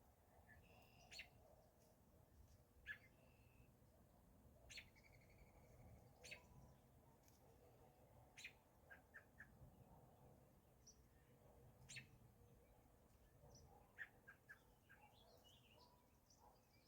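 Faint birdsong: several small birds giving short, scattered chirps and a few brief held whistles, over a faint low outdoor hum.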